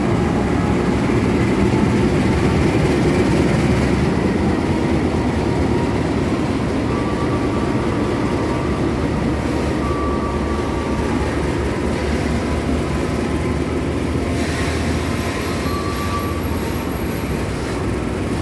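Freight train running past on the track: a steady, loud rumble of the locomotive and wagons on the rails, with a few short high-pitched squeals.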